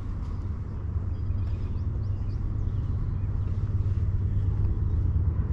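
Steady low outdoor rumble, like distant road traffic, growing slightly louder, with a few faint high chirps.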